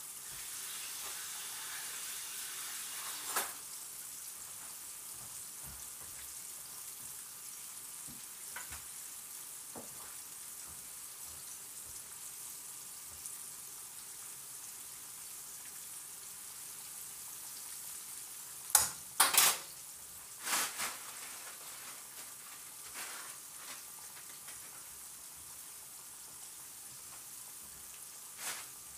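Flour-dredged chicken strips frying in a pan of hot oil, a steady high sizzle. A few sharp clicks of a utensil against the pan sound over it, the loudest a quick cluster a little past the middle.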